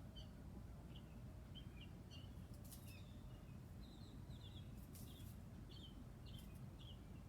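Faint small-bird chirps, a dozen or so short high calls at irregular intervals, over a steady low background rumble, with a couple of brief clicks.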